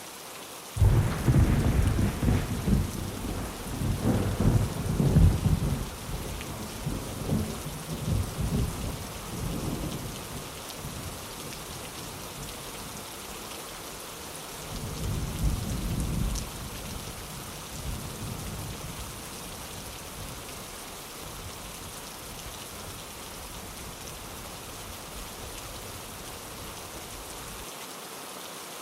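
Steady heavy rain with thunder. A loud crack of thunder breaks about a second in and rolls on for several seconds, and a second, fainter rumble follows about halfway through.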